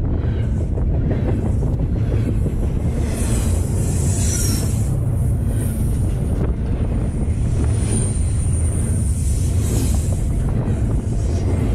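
Double-stack container freight cars rolling past at close range, a steady heavy rumble of wheels on rail. A thin high-pitched wheel squeal comes and goes from about four seconds in.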